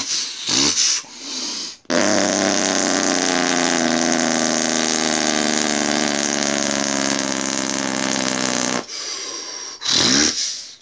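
An 18-wheeler semi truck's jake brake (engine compression brake) running with a loud, steady, rattling drone for about seven seconds. It is preceded and followed by shorter sounds that rise and fall in pitch.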